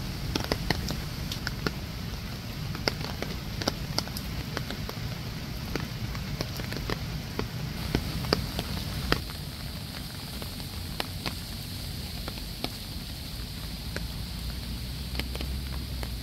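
Spraying water pattering and splashing onto a wet surface: a steady hiss with many sharp drop-like ticks scattered through it.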